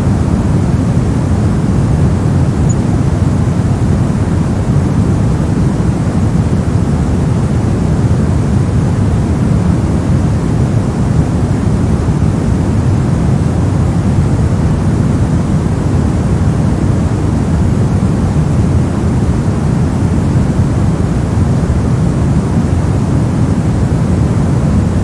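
Steady electronic white noise: an even, unchanging hiss, deep and full in the bass and thinner in the treble.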